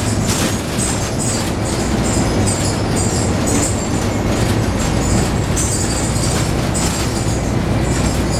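Scania N113 bus running on its diesel engine, heard from on board: a steady engine drone with irregular rattling of the body and fittings over it.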